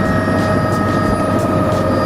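Helicopter running, with a steady high whine over a dense low drone and an even beat from the rotor, about three pulses a second.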